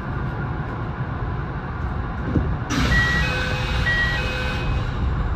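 Kintetsu 6820 series electric train running with a steady low rumble. About two and a half seconds in, a hiss rises and a level-crossing warning bell rings, alternating a higher and a lower tone about once a second, fading near the end.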